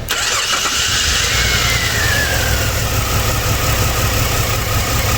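Jeep Liberty 3.7L V6 starting right away and running, fed by an injector-cleaning tool instead of its own fuel pump. A whine rises and then falls as the idle settles to a steady rumble.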